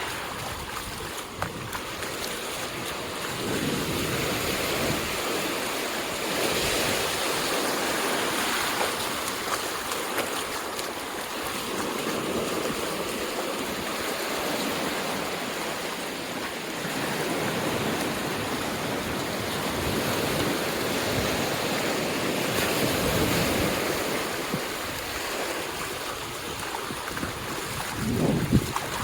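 Ocean surf washing onto a sandy beach: a steady rush of noise that swells and eases every few seconds as waves break.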